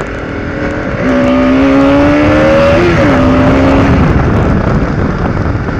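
Steady road and wind rumble of a vehicle on the move, with a loud horn-like tone held for about three seconds from a second in; it dips lower in pitch just before it stops.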